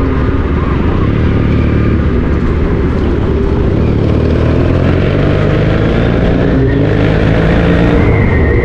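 Motorcycle running on the road: a steady low rumble, with a high whine that comes in near the end and slowly falls in pitch.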